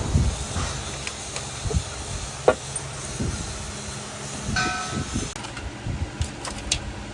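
Metal tools and engine parts knocking and clinking in irregular strokes over a steady low hum, with one metal piece ringing briefly just past the middle.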